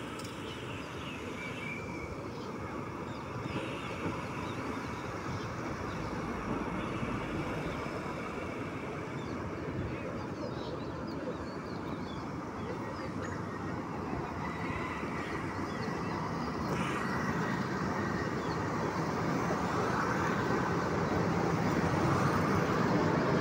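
Electric locomotive hauling passenger coaches rolls toward and then under the bridge: a steady rumble of wheels on the track that grows louder near the end.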